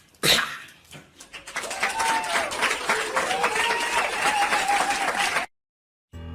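Crowd applauding, a dense patter of clapping with a voice calling out in long gliding tones over it; it cuts off suddenly about five and a half seconds in.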